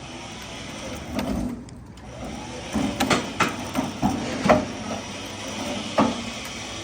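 A heavy log and its rigging shifting as it is let down onto a turntable mount: a series of sharp wooden and metal knocks and creaks, five or so of them in the second half.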